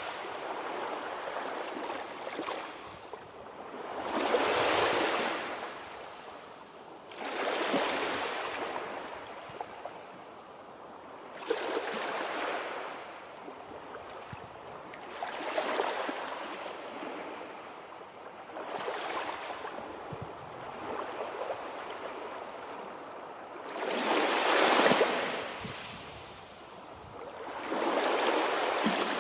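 Sea waves breaking and washing on a shore, one surge every three to four seconds, each rising and then fading away.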